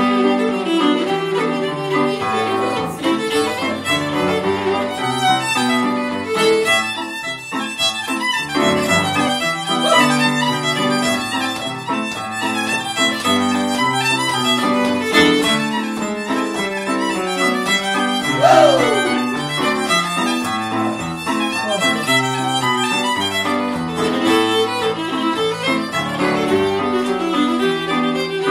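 Irish traditional tune played by a pub session, the fiddle leading, in a brisk, steady run of quick notes. About two-thirds of the way in, a brief falling sliding sound stands out above the music.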